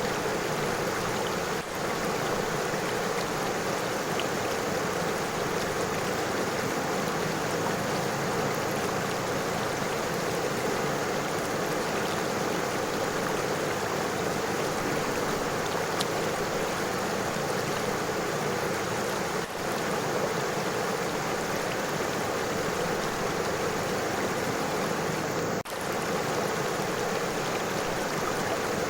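River water flowing over stones: a steady, continuous rush and babble.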